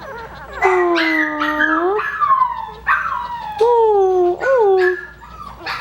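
One-week-old Coton de Tulear puppies whimpering and squealing in a run of about five drawn-out cries. Several fall in pitch, and one near the end rises and then falls.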